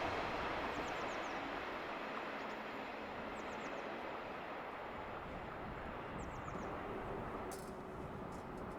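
A steady rushing noise that slowly fades, with three sets of faint, quick, high chirps falling in pitch, about four to a set.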